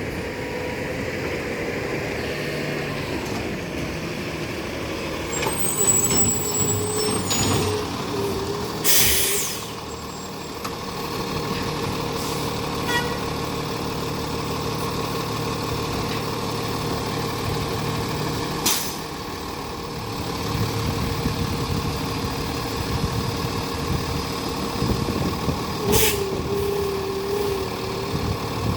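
Garbage truck running steadily, with sharp air-brake hisses about a third of the way in, again past the middle and near the end, and a wavering squeal at times.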